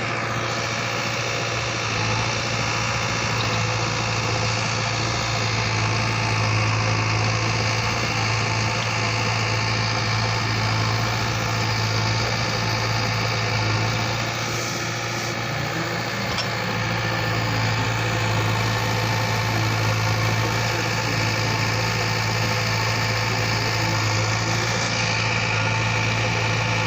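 JCB 3DX backhoe loader's diesel engine running steadily, just restarted after a pipe fault was repaired.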